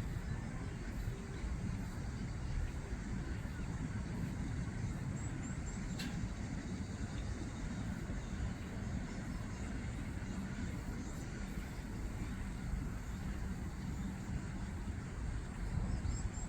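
Steady low outdoor rumble, with a few faint high chirps about five seconds in and again near the end, and a single click about six seconds in.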